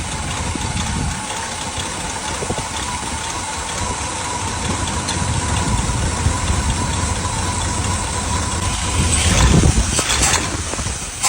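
Carbureted gasoline engine of a 1977 GMC C7000 truck running at idle while its carburetor is being tuned. It gets louder for about a second near the end.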